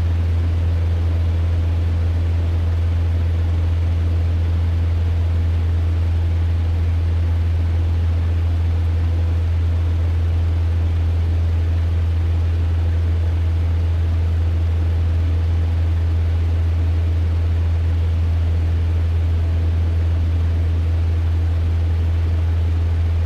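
Cessna 150's four-cylinder Continental O-200 engine and propeller droning steadily in flight, heard from inside the cabin as a constant low hum.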